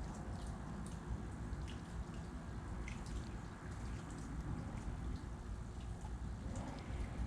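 Outdoor background noise: a steady low rumble, with faint short ticks scattered through it.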